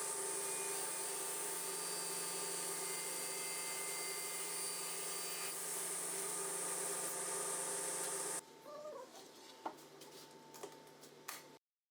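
Sliding-table panel saw running steadily with its blade tilted to 14 degrees, a constant machine hum with a whine. About eight seconds in the machine noise cuts off abruptly, leaving a quieter background with a few light knocks and clicks, then silence just before the end.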